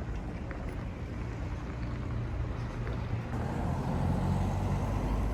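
Low, steady rumble of a moving vehicle heard from inside, growing louder and fuller about three seconds in.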